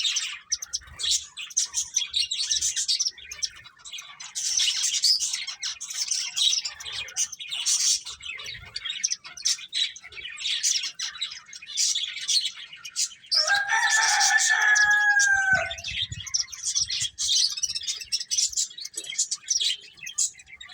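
Pet finches chirping continuously, a busy stream of short, high tweets. About 13 seconds in, a longer, lower call lasts about two seconds and falls slightly at the end.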